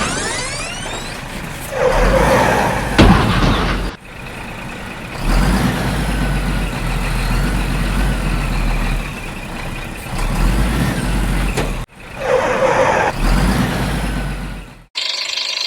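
Heavy truck engine sound running, broken into pieces that cut off abruptly, with a hiss like an air brake near the start.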